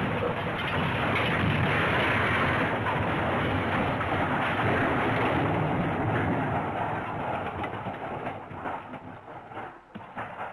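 Crash sound effect: a dense, noisy clatter and rumble that holds steady for about six seconds, then thins into scattered small clattering clicks and fades out near the end.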